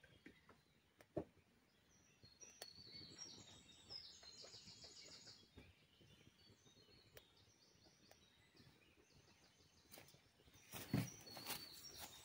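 Faint birdsong: small birds singing repeated runs of high, stepped notes. A few knocks and rustles near the end.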